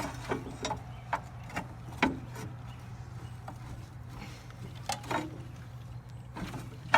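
Irregular metallic clicks and knocks as a rust-seized dozer engine is forced around by hand, a bar and wrench straining at the crankshaft to break it free, over a steady low hum. The sharpest knock comes right at the end.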